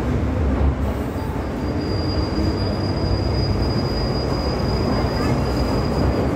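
MTR M-Train electric metro train running with a steady low rumble, and a thin, high, steady wheel squeal from about a second in until shortly before the end.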